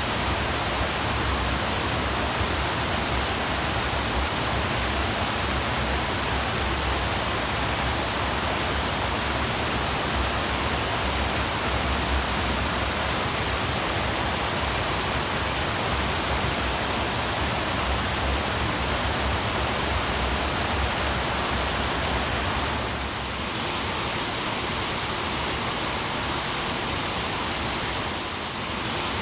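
Waterfall: a steady rush of falling water with a deep low rumble, dipping slightly in level twice near the end.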